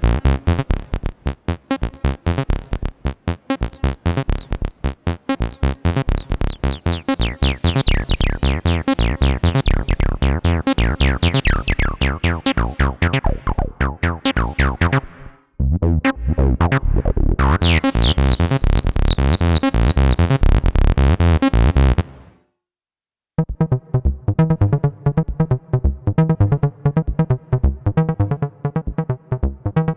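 Behringer TD-3-MO analogue bass synthesizer playing 303-style acid bassline sequences: fast repeating notes whose resonant filter opens and closes, sweeping the tone bright and dull. About two-thirds through, the pattern cuts off for about a second, then a new, darker pattern starts.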